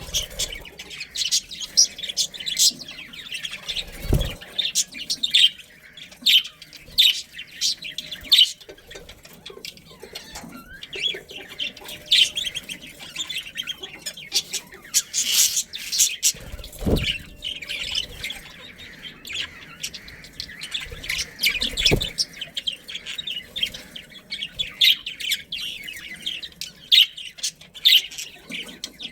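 A group of budgerigars chattering and chirping continuously, many quick calls overlapping. Three brief dull thumps stand out among the calls.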